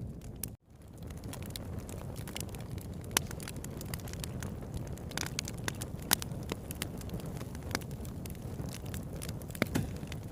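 Wood campfire burning, with a steady low rumble of flame under frequent sharp crackles and pops, a few of them louder. The sound cuts out for an instant about half a second in.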